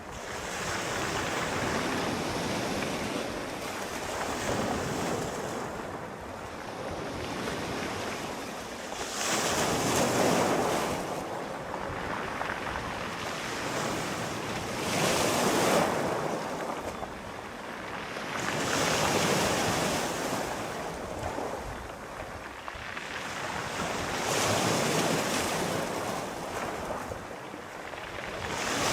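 Sea waves washing in and drawing back, the surf swelling and fading about every four seconds.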